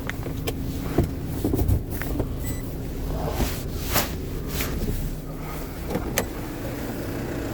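A vehicle engine idling steadily, with scattered knocks and clatters over it.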